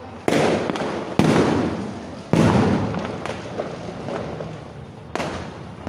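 Fireworks bursting: three loud bangs in quick succession in the first two and a half seconds and a fourth near the end, each one echoing away, with smaller pops between.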